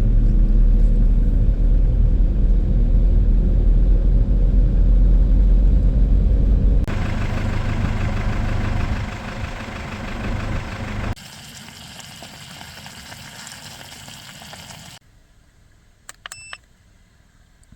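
An engine running steadily with a deep low hum that cuts off abruptly about seven seconds in. Quieter steady sounds follow, then a steady hiss, and near the end a faint stretch with a few short clicks.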